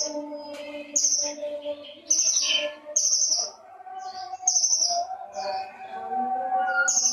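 Small songbird of the kind Indonesian keepers call 'konin', calling in rapid sharp high chirps about once a second, each a quick downward flick, over steady background music.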